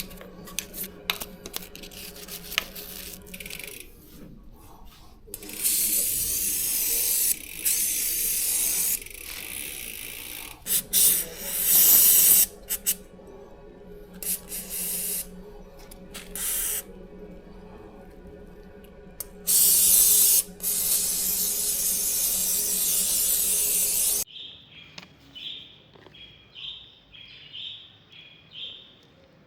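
Spray hissing in long bursts of several seconds, during bicycle chain cleaning, after a run of light clicks. Near the end it stops suddenly, leaving short high chirps that repeat about twice a second.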